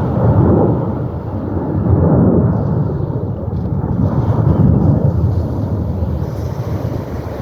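Jet aircraft roar overhead, a loud deep rumble that swells and eases several times and fades a little near the end.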